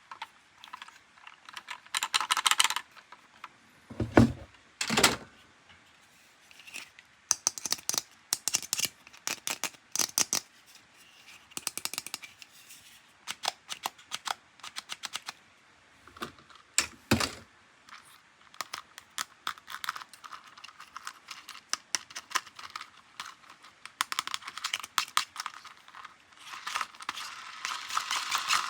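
Toys and their packaging handled close to the microphone: a long run of small clicks and taps, with heavier knocks about four to five seconds in and again around seventeen seconds, and a rustle near the end.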